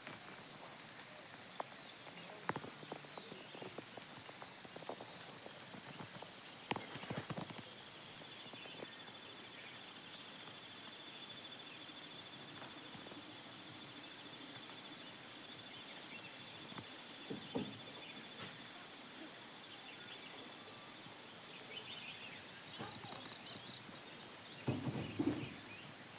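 Steady, high-pitched insect chorus drones without a break, with a fainter pulsing buzz beneath it. Scattered soft knocks and rustles sound now and then.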